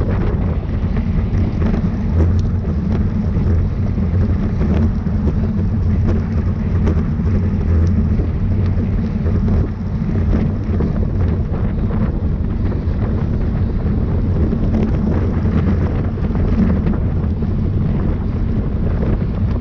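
Loud, steady wind noise buffeting a camera microphone moving at speed, heaviest in the low rumble, with scattered faint clicks.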